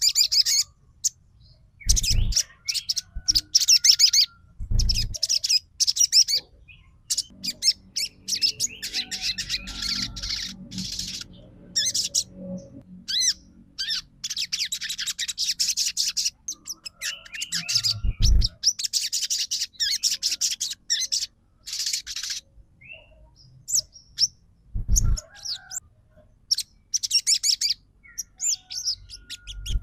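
A sogon trotol songbird singing: bursts of rapid, high chirping phrases with short pauses between them. A few dull low thumps break in at intervals.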